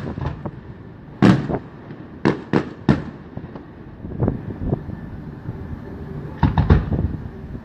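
Fireworks bursting overhead in a series of sharp bangs: one about a second in, three in quick succession around two to three seconds, then a tight cluster near the end.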